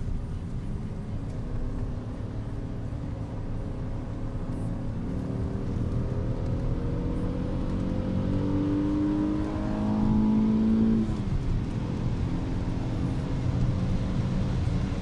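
Alfa Romeo GT's 3.2-litre Busso V6, heard from inside the cabin, running steadily, then pulling hard under acceleration. Its note rises steadily for several seconds from about five seconds in, peaks in loudness, then falls away abruptly about two-thirds of the way through and runs on evenly.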